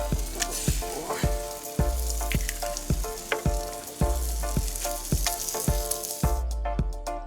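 Eggs and salo (pork fat) sizzling hard in a frying pan over a campfire, with background music underneath. The sizzle cuts off suddenly near the end.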